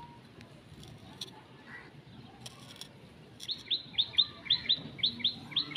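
A small bird chirping: a fast run of short, repeated chirps, about six a second, starting about three and a half seconds in.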